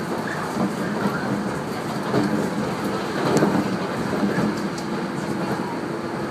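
On board a JNR-built 115 series electric train running at speed: steady rumble of the wheels on the rail, with a few faint clicks. A steady low tone comes in over the second half.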